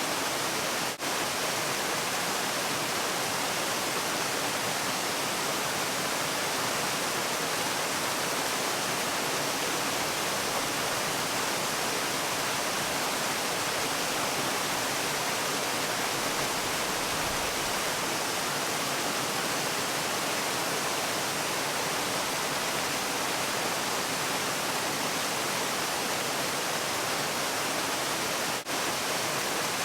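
Waterfall: a steady, even rush of falling water, with a brief dip in level about a second in and another near the end.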